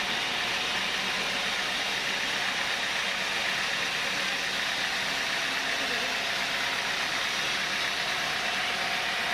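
Sawmill saw machinery running steadily, an even, unbroken mechanical noise with no distinct cuts or knocks.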